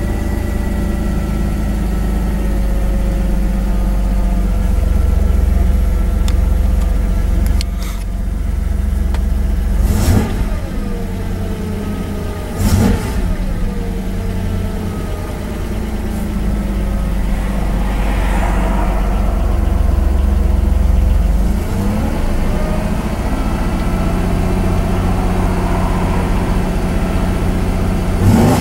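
Holden VR Commodore ute's 3.8-litre V6 idling fast, around one to two thousand rpm, its revs rising and falling. It is running on a swapped-in VN automatic engine computer, which holds the idle a little higher than the stock manual computer. There are a couple of sharp knocks about ten and thirteen seconds in.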